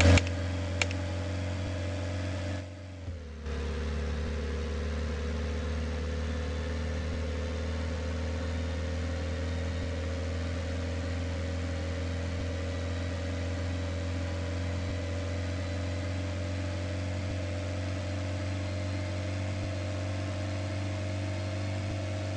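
Moskvich 412's four-cylinder petrol engine idling steadily, with a brief dip about three seconds in.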